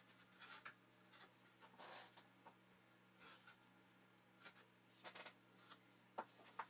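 Faint, irregular scratching and rubbing strokes, with a few light ticks near the end, over a low steady hum.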